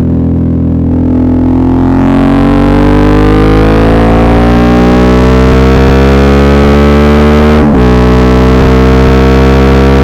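Suzuki V-Strom 650's V-twin engine pulling under acceleration, its pitch rising steadily. There is a brief drop for an upshift about three-quarters of the way through, then it pulls on. Recorded through an earbud microphone.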